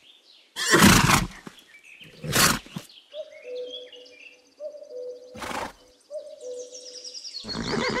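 Horses snorting in three short, noisy blows, about a second in, near the middle and again later, with birds chirping in the background through the second half.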